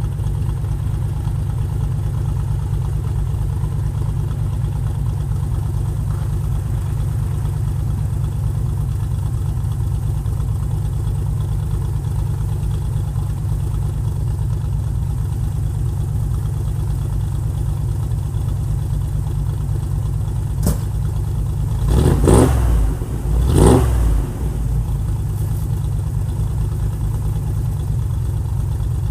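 The 1946 GMC truck's engine idles steadily. Near the end come two short throttle blips, each rising and falling, about a second and a half apart.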